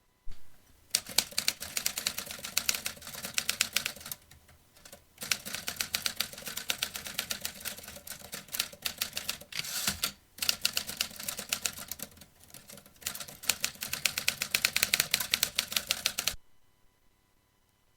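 Vintage typewriter being typed on in fast runs of keystrokes, broken by short pauses. The typing stops about a second and a half before the end.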